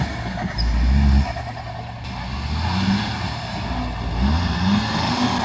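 GAZ 69 off-road special's engine revving up and down under load, its pitch rising and falling, with a louder surge about a second in and another past the middle.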